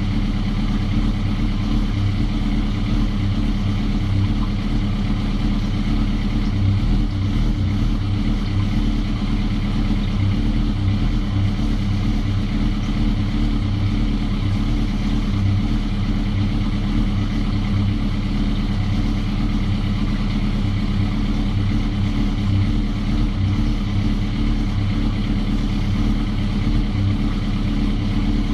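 Suzuki GSX-R motorcycle's inline-four engine idling steadily after a rebuild that replaced burnt-out valve stem seals.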